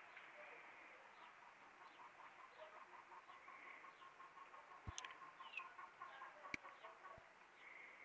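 Faint distant birds calling: a run of short, quickly repeated notes with scattered higher chirps. Three sharp clicks come in the second half.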